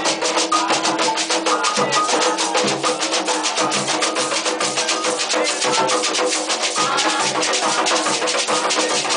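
Ceremonial drumming on hand drums: a fast, dense, steady rhythm of many strokes a second, with pitched sounds held underneath.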